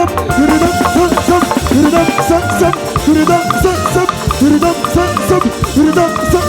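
Live Nigerian band music with a steady dance beat and a lead line of short notes that bend up and down in pitch.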